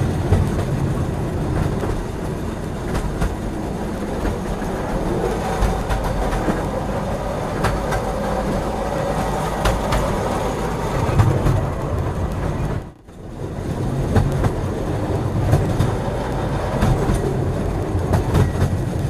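Train rolling along the track: a steady rumble with irregular clacks of the wheels over the rails. The sound cuts out suddenly for a moment about two-thirds of the way through, then resumes.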